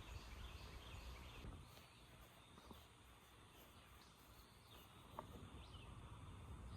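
Near silence: faint outdoor ambience with a low rumble and a few faint, short high chirps.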